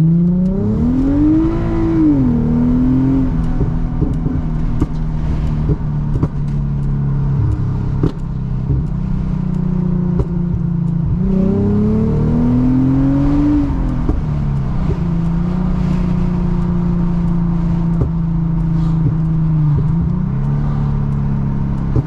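Tuned 2006 Lexus IS350's V6 revving up twice, the second time about eleven seconds in; each time the pitch climbs, then drops on let-off and settles to a steady drone. Scattered sharp pops crackle in between: the tune's exhaust pops on let-off.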